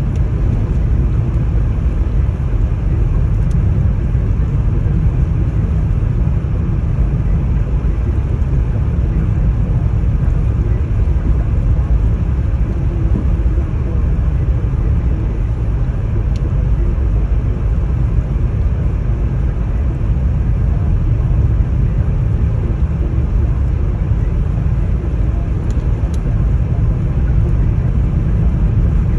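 Storm wind buffeting the microphone: a steady, loud, low rumble throughout.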